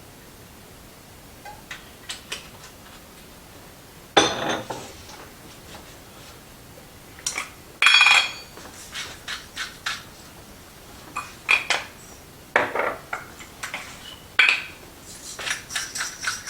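Metal utensils clinking and knocking against a cooking pot in scattered strokes, the loudest about four and eight seconds in. Near the end a pepper mill starts grinding in a quick run of small clicks.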